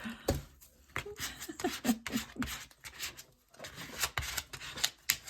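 Paper and card pieces being handled and rubbed on a craft desk: irregular rustling and scraping with small taps.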